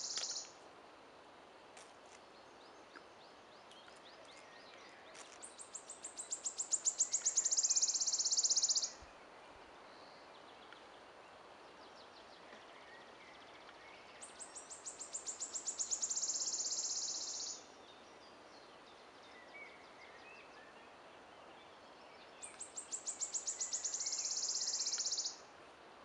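A songbird sings three times, each song a run of high notes that speed up and run together into a trill about three seconds long. Fainter calls of other birds come in between.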